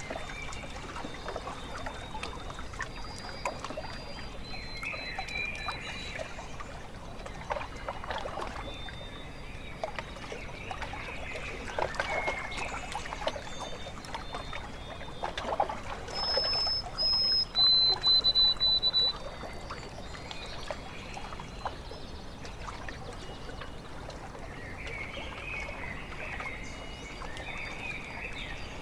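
Small waves lapping and trickling against a lake shore, with birds calling over it in thin whistled notes; the loudest is a run of high whistles a little past halfway, and there is warbling chatter near the start and again near the end.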